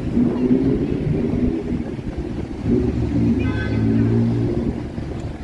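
Motor vehicle engine running with a steady low rumble, a little louder about three seconds in.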